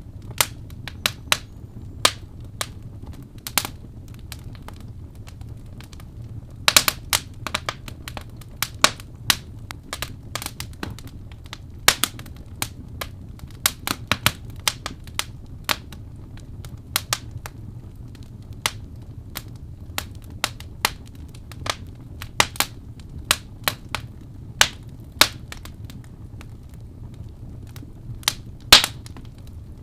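Wood fire in a fireplace crackling: irregular sharp pops and snaps, sometimes in quick clusters, over a low steady background.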